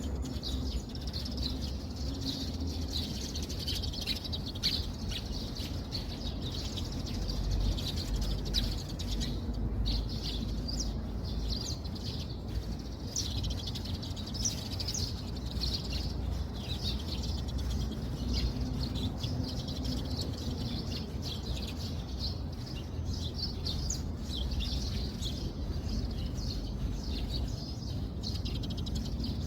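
Many small birds chirping continuously, the chirps overlapping, over a steady low rumble.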